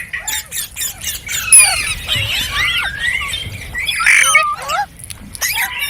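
Green parrots chirping and squawking: a rapid run of overlapping calls sliding up and down in pitch. The loudest is a shrill call about a second and a half in, with a short lull just before the end.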